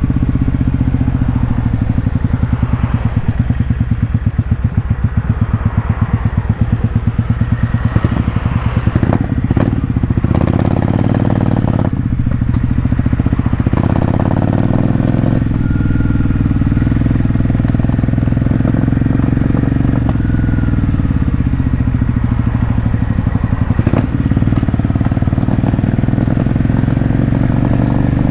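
Motorcycle engine running as the bike is ridden on the road, its engine speed rising and falling a few times.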